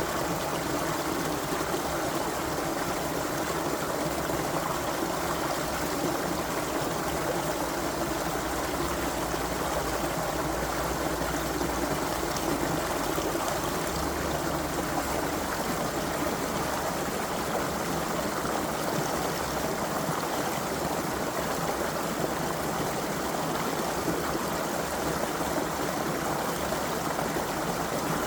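Creek water flowing and babbling over stones, a steady, even rush.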